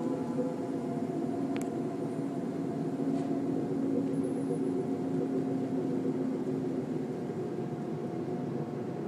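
A low, steady droning hum in the sky, several held tones sounding together over a background rush, of the kind recorded and shared as an unexplained 'strange sky sound'.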